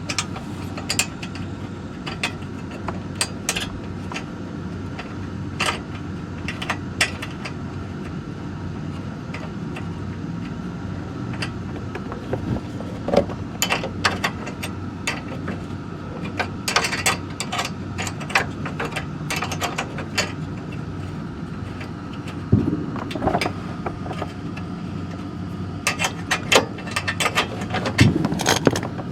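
Hand tools working on bolts under a car: scattered metallic clicks and clinks, with short runs of ratchet-like clicking, over a steady low hum.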